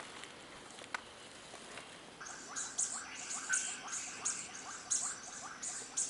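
A forest bird calling a steady series of short, sharp notes, about three a second, starting about two seconds in after a faint lead-in with a single soft click.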